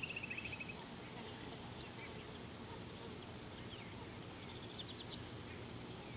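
Birds calling at the waterhole: a rapid trill dies away in the first second, then scattered faint chirps and another short trill about five seconds in, over a steady low background hiss.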